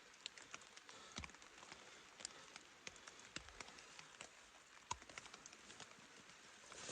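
Faint, irregular ticking of raindrops on the shelter's fabric, with a couple of slightly louder taps about a second in and near five seconds in.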